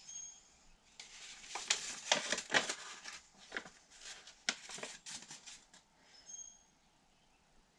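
Crinkling and rustling of something being handled, a quick run of sharp crackles lasting about five seconds.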